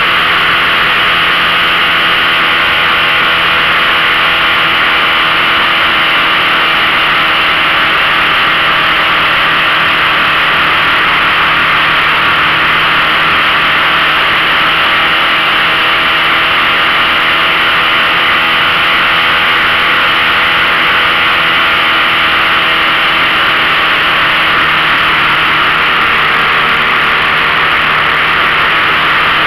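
15 hp outboard motor running at a steady speed, with a strong hiss over it.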